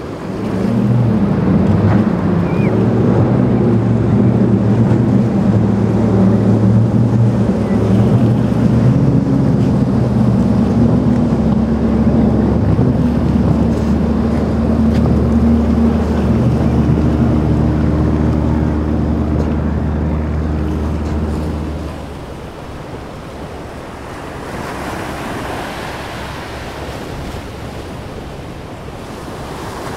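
Motorboat engines running at speed, a steady engine drone with rushing water and wind. About 22 seconds in the engine sound cuts off abruptly, leaving only wind and surf.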